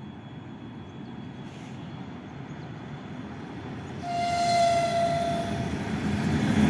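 Freight train led by a 3ES4K electric locomotive approaching, its steady low rumble growing louder. About four seconds in, the locomotive's horn sounds one blast of just under two seconds at a single steady pitch.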